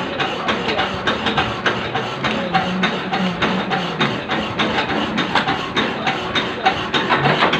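Metal-cutting machine working on a keyway, knocking in a quick, even rhythm of roughly three to four strokes a second.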